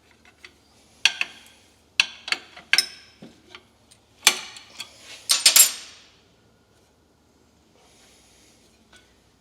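Hand tools clinking and scraping against metal while working a leaking fuel fitting loose on an old engine: a handful of sharp clinks and knocks, with a longer scrape about five seconds in.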